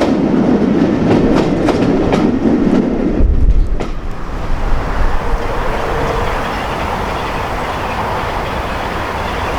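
A passing train's wheels clicking over rail joints in a quick run of clicks, with a rumble underneath. About three seconds in the clatter stops, leaving a deep rumble and then a steady noise.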